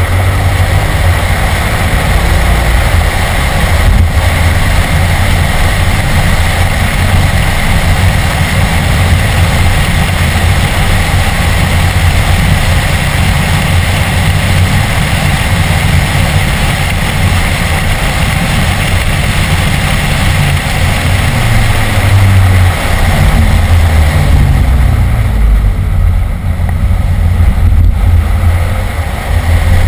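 BMW E46 M3's 3.2-litre inline-six engine running hard at track speed, heard from inside the cabin along with wind and road noise. The engine note shifts a little about 22 seconds in, and the level dips briefly near the end.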